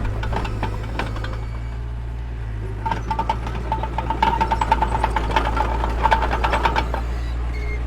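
Mini bulldozer's diesel engine running under load, with the rapid metallic clatter of its steel tracks. For a few seconds in the middle a squeak rides along with the clanking.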